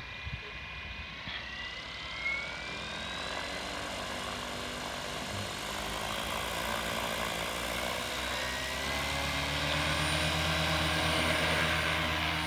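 Devil 380 electric RC helicopter spooling up its rotors for takeoff. A rising motor whine comes first, then a steady rotor drone that grows gradually louder as the head comes up to speed.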